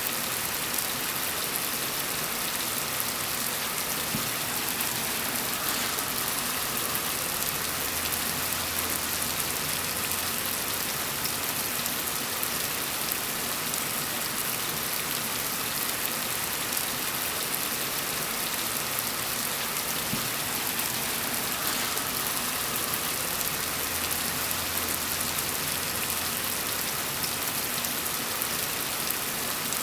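Steady rain falling on a surface: a dense, even patter, strongest in the high end. A faint low rumble comes in twice for a few seconds.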